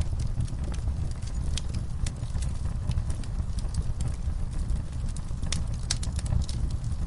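A fireplace fire crackling, with irregular sharp pops over a steady low rumble of the flames, and a quick run of louder pops a little before the end.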